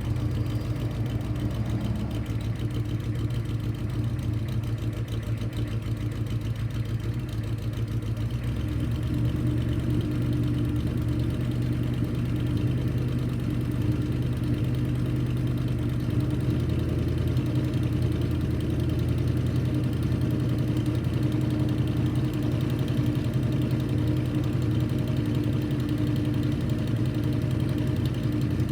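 Detroit Diesel 6.2-litre V8 diesel idling steadily with diesel clatter after a cold start, a little louder from about nine seconds in.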